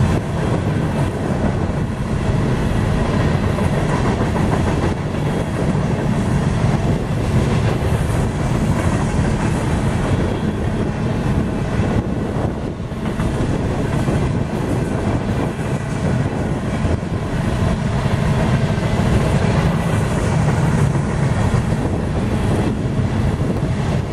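Freight train's open-top hopper cars rolling past close by: a loud, steady rumble of steel wheels on rail, with irregular clicks as the wheels cross rail joints.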